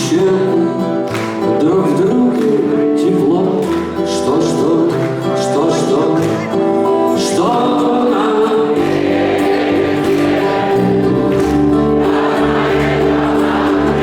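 Live band music with singing: held chords over a bass line, with a voice carrying the melody.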